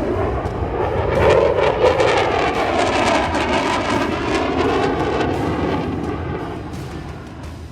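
Fixed-wing aircraft passing overhead, loud, its sound fading away over the last couple of seconds.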